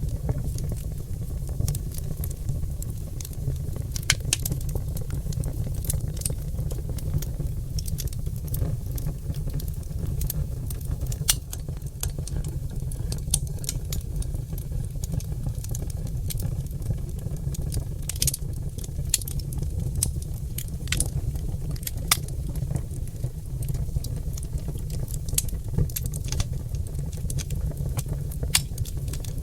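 Oak logs burning in a fireplace: irregular sharp crackles and pops over a steady low rumble.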